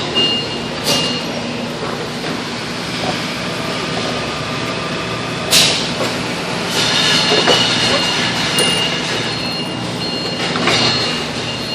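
Fork truck engine running steadily while the forks are worked. A high thin whine comes and goes over it, and there is a short sharp knock about five and a half seconds in.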